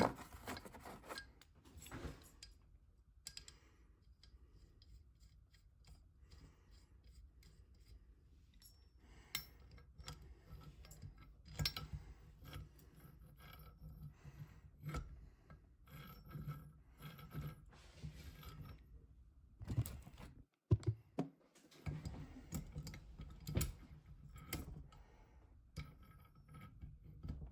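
Metal tool parts being handled, adjusted and fitted by hand: scattered clicks, light clinks and scraping rubs at a low level.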